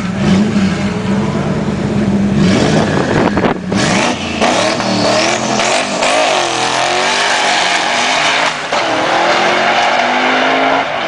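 A modified drag car's engine holding a steady note at the line, then launching about two and a half seconds in and revving hard as it accelerates away, its pitch dropping at gear changes about four seconds and eight and a half seconds in.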